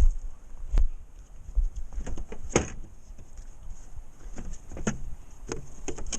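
Scattered knocks, clicks and short scrapes from tools and materials being handled, the loudest about two and a half seconds in.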